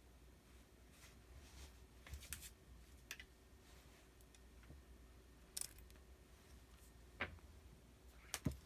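Faint, scattered clicks and rustles, one or two at a time, with a sharper pair near the end, over a steady low hum.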